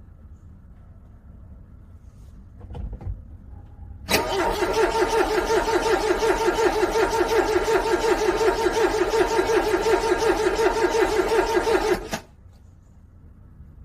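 Car engine cranking on its starter in the cold, an even rapid pulsing for about eight seconds without catching, then cutting off suddenly. It is a cold engine struggling and failing to start.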